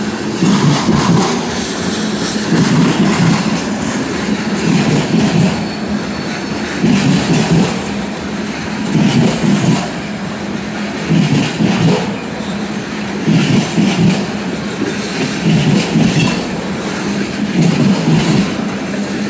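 Canadian Pacific freight train's covered hopper and tank cars rolling past, wheels clacking over the rail joints in repeated loud swells every one to two seconds over a steady low rumble.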